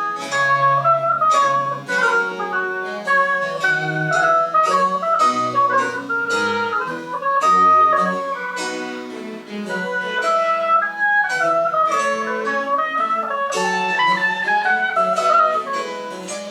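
French Baroque chamber music played live: a wind instrument carries a moving melody over plucked-string accompaniment, with quick, clearly separated notes.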